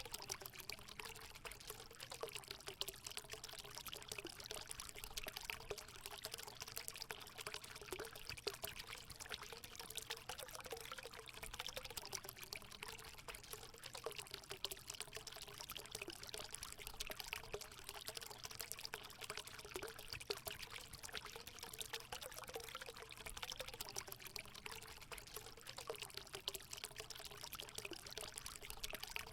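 Natural water running and pouring into a hot spring pool: a steady splash with a wavering gurgle underneath, unchanging throughout.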